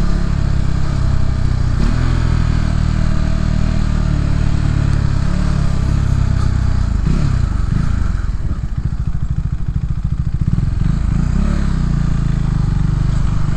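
Motorcycle engine running while riding. About halfway through the note drops and runs low and uneven for a few seconds, then steadies again.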